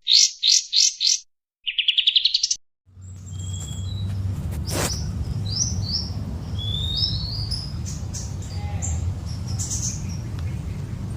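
Songbird chirping: four sharp chirps, then a quick rising trill. After a short pause, more scattered chirps and short whistles follow over a steady low rumble.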